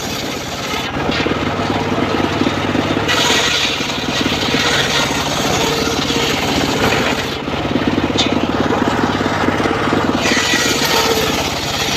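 Homemade engine-driven circular sawmill running steadily, with a louder hissing rasp whenever the blade is cutting through teak, about three seconds in and again near ten seconds.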